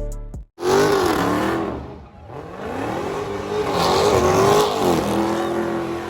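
Car engine revving: the pitch rises and falls twice, then holds steady near the end.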